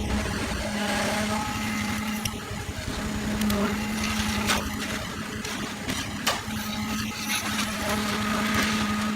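A small engine or motor running steadily with a constant hum, with a few sharp knocks over it.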